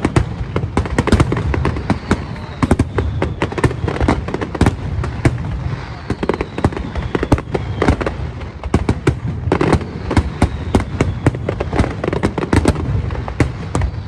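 Fireworks display: a dense, continuous barrage of sharp cracks and bangs, many each second, over a low rumble, with a few faint falling whistles.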